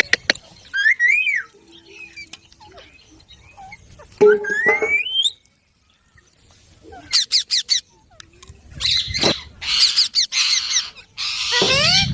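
Rose-ringed parakeets (Indian ringnecks) squawking and chattering: short whistled calls that slide up and down in pitch, a quick run of clicks partway through, then harsh, screechy squawks over the last few seconds.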